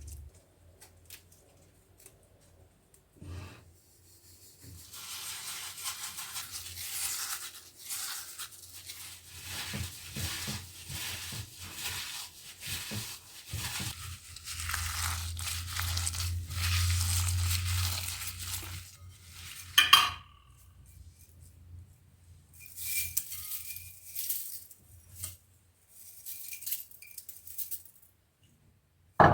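Kitchen food-preparation sounds: long runs of rhythmic scraping and rubbing, with a low hum midway and a sharp clink about two-thirds of the way through.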